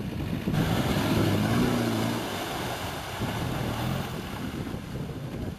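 Land Rover engine revving, its pitch rising and then falling about a second or two in, with wind buffeting the microphone throughout.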